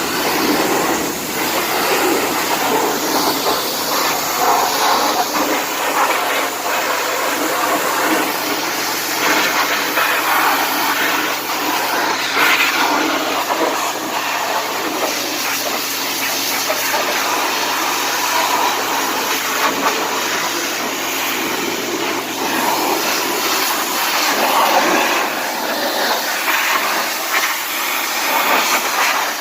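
Pressure washer running and spraying water under the car's hood: a loud, steady hiss of the spray over the low hum of the washer's engine.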